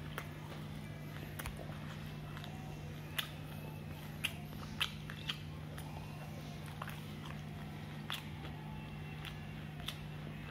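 A person chewing crispy batter-fried chicken close to the microphone, with sharp crunches every second or so at irregular intervals. A steady low hum runs underneath.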